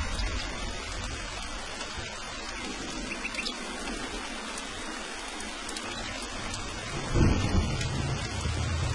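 Steady heavy rain with thunder: a low rumble dies away over the first few seconds, then a sudden loud thunderclap about seven seconds in rolls on to the end.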